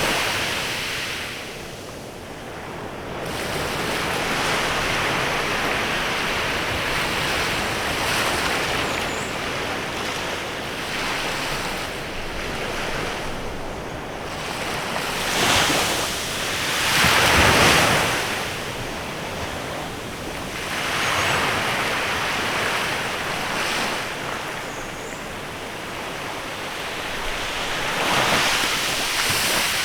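Waves breaking and washing on a bay beach, the surf swelling and ebbing in a slow rhythm, with the biggest breaks about halfway through and again near the end.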